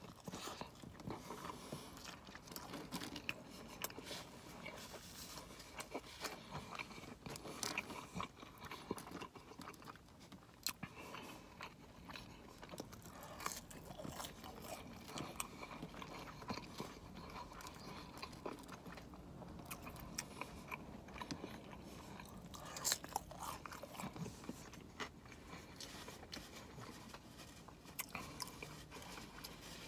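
Quiet, close-up eating sounds of a person biting into and chewing a crispy fried buffalo chicken sandwich with bacon, with many small irregular crunches throughout.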